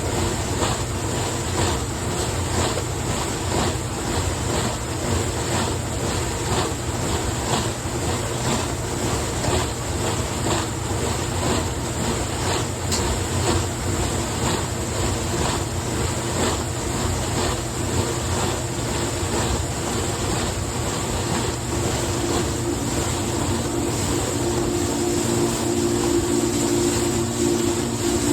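1974 KitchenAid Superba KSD-57A dishwasher by Hobart running its rinse cycle: the motor hums steadily while water sprays inside the tub with a regular swish. A steady humming tone comes in over it for the last few seconds.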